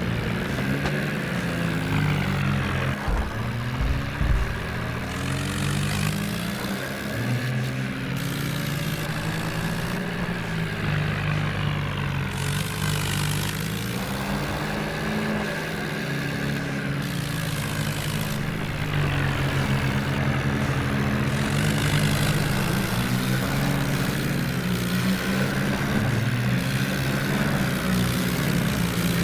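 Tractor engine running steadily, its pitch dropping and rising several times as the engine speed changes.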